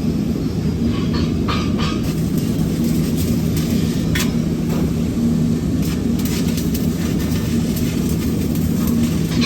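Steady low mechanical drone of welding-shop machinery, with a few short clicks and knocks in between.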